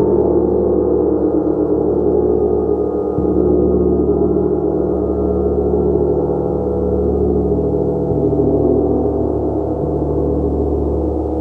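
Gong played continuously, a dense sustained wash of overlapping tones. It is kept going by soft mallet strokes every few seconds rather than by single loud crashes.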